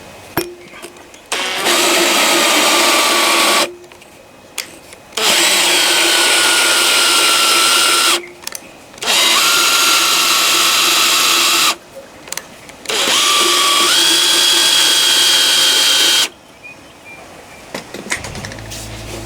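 Hand-held electric power tool of the drill kind running in four bursts of about three seconds each, with short pauses between them. Its motor whine dips and shifts in pitch as it is loaded.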